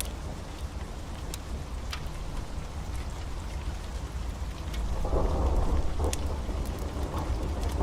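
Heavy rain falling steadily, with thunder rumbling low underneath and swelling louder about five seconds in.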